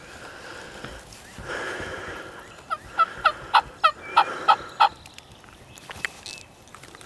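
Wild turkey calling: a short rattling burst about a second and a half in, then a quick run of about eight sharp yelps, roughly four a second.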